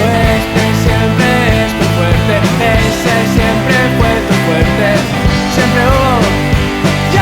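Rock band playing: drums keeping a steady beat under bass and electric guitars.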